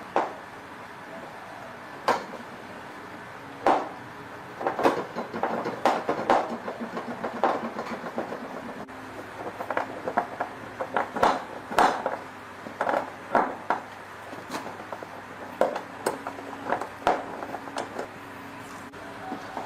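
Irregular clinks and knocks of tools and metal parts being handled during washing-machine repair work, some coming in quick runs of several, others single and spaced apart.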